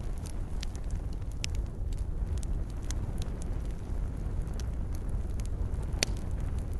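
Wood fire burning in a fireplace: a steady low rumble of flames with scattered sharp pops and crackles, one louder pop near the end.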